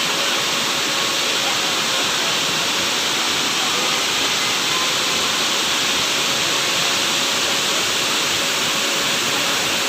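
Benang Kelambu waterfall: falling water making a steady, even rush of noise.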